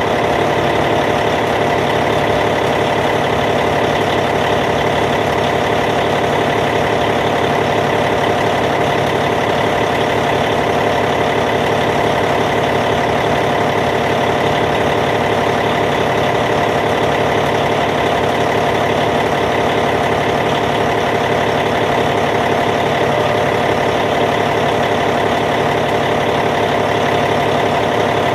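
Caterpillar C15 inline-six diesel engine of a D8T bulldozer idling steadily.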